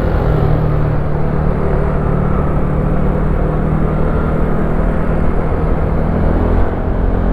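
Wolf Classic 125cc motorcycle engine running steadily under way, with an even rush of riding noise over it.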